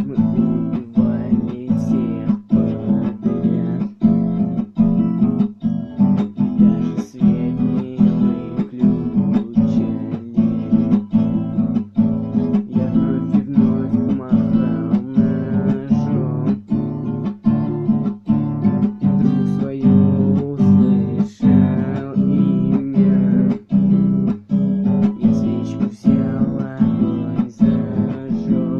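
Acoustic guitar strummed in a steady, even rhythm, about one and a half strokes a second, over sustained chords.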